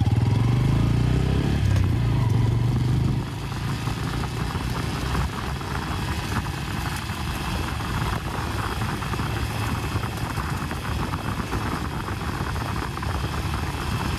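Bajaj Pulsar N160's single-cylinder engine running strongly for about three seconds as the bike sets off. It then gives way to a steady rush of riding noise with many small irregular ticks as the motorcycle is ridden over a rough road.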